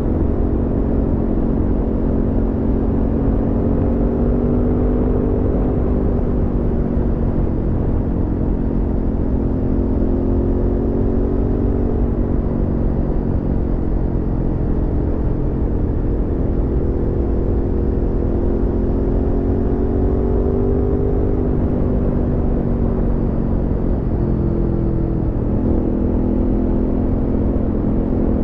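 Aprilia Tuono V4's V4 engine pulling steadily while under way. Its note drifts gently up and down, with a short drop and jump in pitch near the end, over a heavy low rumble.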